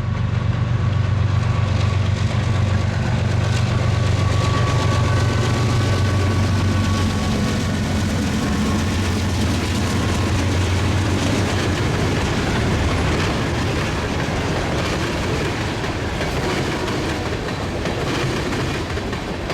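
Westbound CN freight train passing close by. The low drone of its diesel locomotives fades after about eight to ten seconds, leaving the steady rolling noise and clickety-clack of freight cars on the rails.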